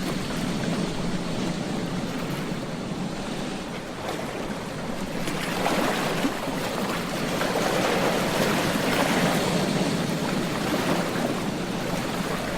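Ocean surf breaking on a beach: a steady wash of waves that swells louder about five seconds in as a wave breaks and rushes up, then eases again near the end.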